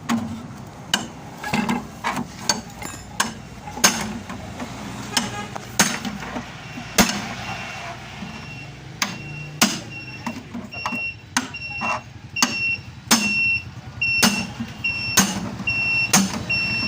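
Hammer blows on the sheet metal of a truck's silencer box, irregular and about one a second. From about halfway on, each blow rings with a clear metallic tone. A low steady rumble runs underneath.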